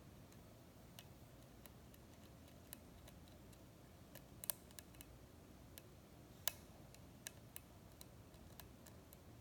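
Faint, irregular metallic ticks and clicks of a lock pick and tension wrench working the pin tumblers of a lock cylinder, with two louder clicks about four and a half seconds in and two seconds after that.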